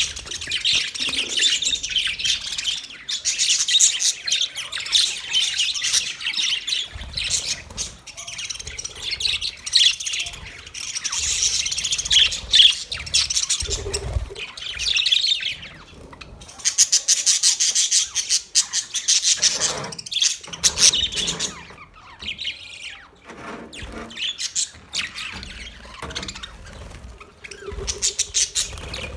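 A large flock of budgerigars chattering and chirping together, many overlapping high-pitched chirps and squawks, thinning out somewhat near the end.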